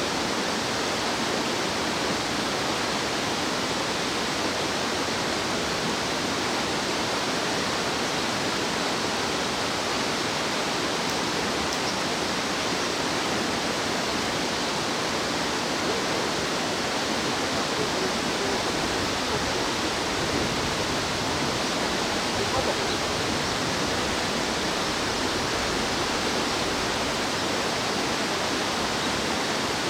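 Fast-flowing stream water rushing steadily and evenly, with no pauses or changes.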